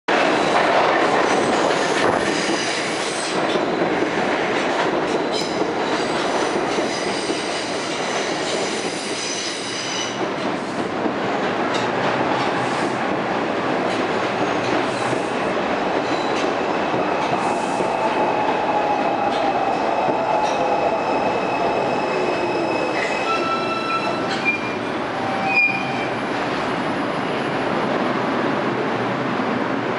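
Bombardier R142 subway train pulling into a station, its wheels squealing over rumbling noise for the first ten seconds or so. Afterwards a motor whine falls in pitch as it slows to a stop, with a few short tones and a brief clunk near the end.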